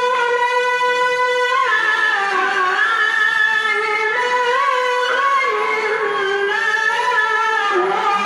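A qari's Quran recitation in a very high voice: one long held note for about the first second and a half, then winding melodic ornaments that bend up and down.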